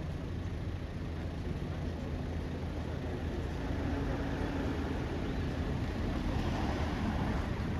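Street traffic: a steady low vehicle engine hum under road noise, growing a little louder near the end.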